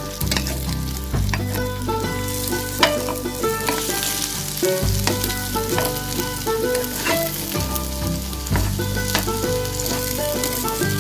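Marinated momos sizzling as they shallow-fry in a little oil in a pan, with a metal spatula repeatedly clicking and scraping against the pan as they are turned.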